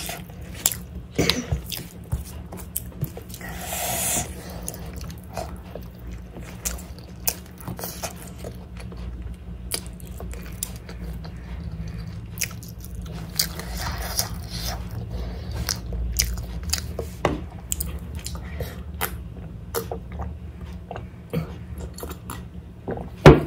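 Close-up eating sounds: a person chewing and smacking on mouthfuls of chicken biryani eaten by hand, with many short wet clicks and lip smacks, fingers being licked, and sips of water near the end. A sharp knock just before the end is the loudest sound.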